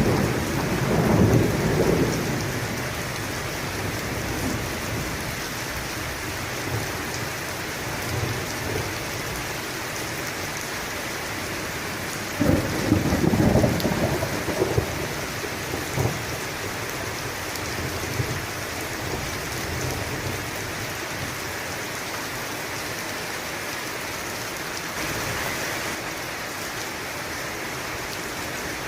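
Steady rain falling, with thunder: a rumble fading away over the first couple of seconds, and another louder peal of thunder about twelve seconds in that rumbles on for a few seconds.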